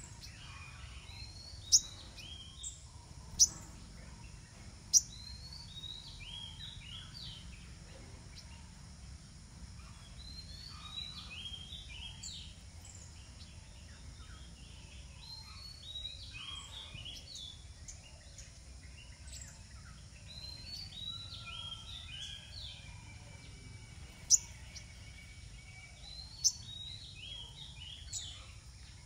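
Birds chirping and twittering in many short, high notes. A few louder, sharp high notes stand out, three near the start and three near the end, over a low steady background rumble.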